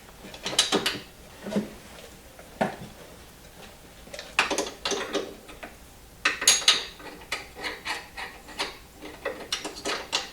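Hand wrench working a starter-motor mounting bolt: irregular bursts of rapid metallic clicks and clinks.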